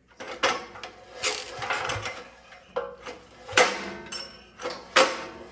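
Recoil pull cord being yanked on a generator's small four-stroke engine, five or so short pulls, each a sudden rasp that dies away as the engine turns over and kicks back against the cord. The mechanic takes the kickback for valves out of adjustment.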